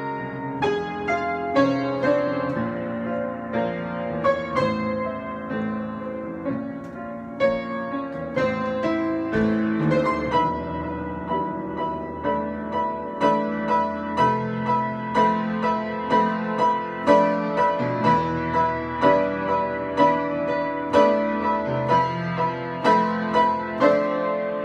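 Improvised solo piano playing: struck chords and melody notes that ring and fade. About halfway through it settles into a steady pulse of accented notes, roughly one a second.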